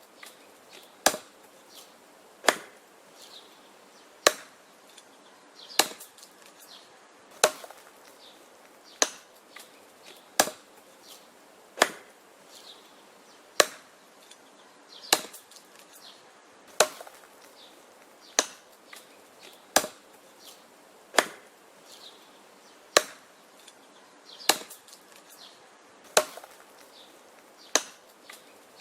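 Axe chopping wood: sharp, even strikes about every one and a half seconds, each followed by fainter knocks.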